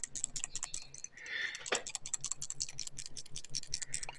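Fuel check valve from a Nelson Little Jumbo hit-and-miss engine being shaken by hand, its insides rattling in rapid, light clicks. The rattle is what the valve is supposed to have: the sign that the check valve is working.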